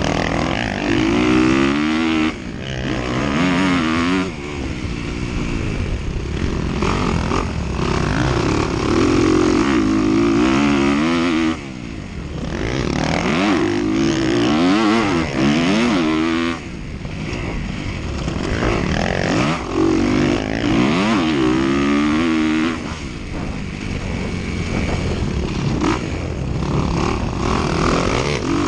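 Dirt bike engine heard from on the bike, revving up and dropping off again and again as the rider throttles through the gears on a cross-country race course. Loudness falls off sharply every few seconds as the throttle is shut, then climbs again.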